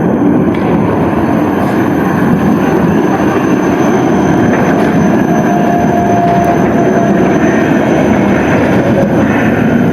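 Tram running past close by on its rails, a loud steady rumble of wheels and running gear. A faint thin squeal comes in briefly about halfway through.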